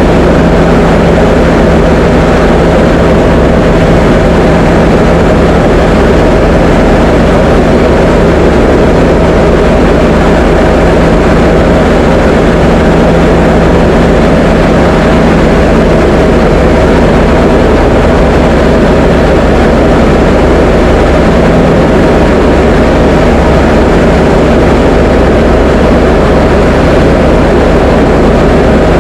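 Diamond DA20 light aircraft's piston engine and propeller running steadily in level flight, a constant loud drone with an unchanging low tone.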